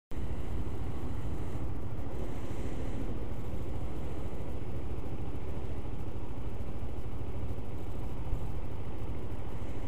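Motorcycle engine idling steadily at a standstill, a low even rumble picked up by the bike-mounted camera. It starts abruptly.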